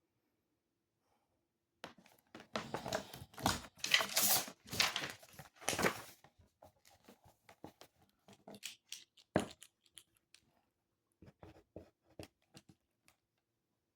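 Paper rustling and crinkling for a few seconds after a short silence, then scattered light taps and clicks with one sharper click a little past the middle.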